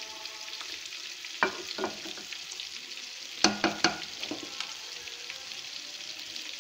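Cauliflower bhaji sizzling in a steel pan on the stove as a spatula stirs it, with a few sharp louder scrapes against the pan, most of them about halfway through. The vegetables are at the well-browned, nearly dry stage of frying.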